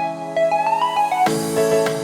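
Background music: a soft keyboard or electric-piano melody over sustained chords, growing fuller about a second in.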